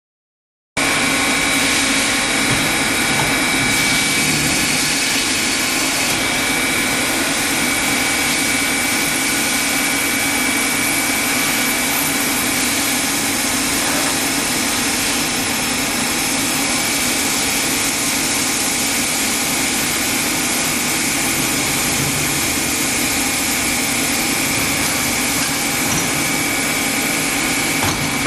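Machine tool running during a machining operation: a steady, loud mechanical noise with a high, constant whine, starting abruptly about a second in.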